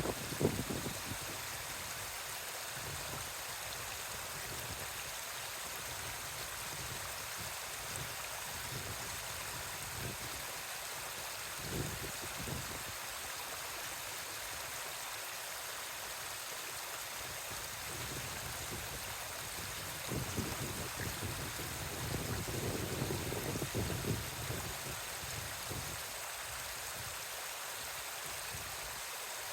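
Steady rushing of running water, with a few low rumbles swelling up near the middle and again later on.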